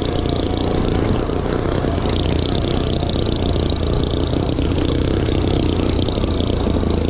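Motorcycle engine running steadily and loudly, with a continuous noisy rush over the low engine note.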